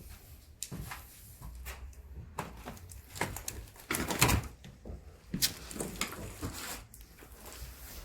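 A string of irregular knocks, crunches and scrapes, loudest about four seconds in.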